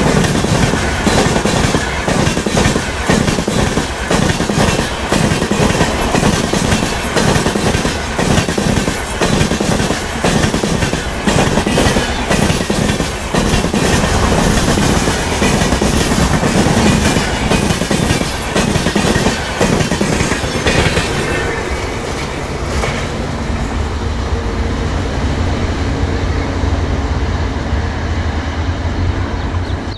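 LHB parcel vans of an express train passing close at speed, their wheels clattering rhythmically over the rail joints with a loud rumble. About two-thirds of the way through it gives way to a steadier, duller rumble of a train further off.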